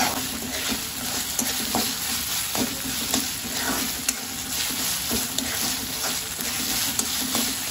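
Chopped onions and ginger-garlic paste sizzling in oil in a kadai over a high gas flame, while a steel spoon stirs and scrapes against the pan with occasional light clicks.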